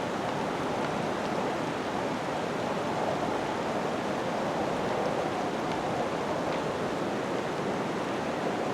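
Blizzard wind blowing steadily through the snowstorm, an even rushing noise with no gusts or breaks.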